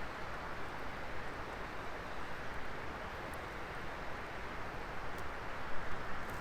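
Wood fire burning with a steady hiss and a few faint crackles.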